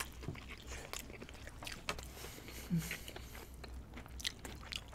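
Close-miked biting and chewing of a crispy fried-chicken burger whose bun is two fried chicken fillets, with scattered small crunches and mouth clicks. A short low vocal hum comes about two and a half seconds in.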